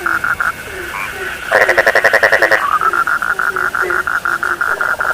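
A chorus of frogs calling. A steady run of short, quick croaks goes on about six times a second over lower, falling notes. About a second and a half in, a louder, harsher burst of rapid croaking lasts about a second.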